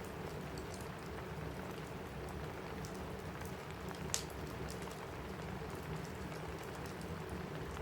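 Steady rain pattering on a cabin roof, with the faint crackle of a wood fire in a fireplace and one sharp pop about four seconds in.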